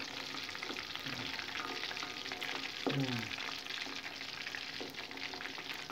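A block of tofu frying in hot oil in a wok: steady sizzling with dense, fine crackling.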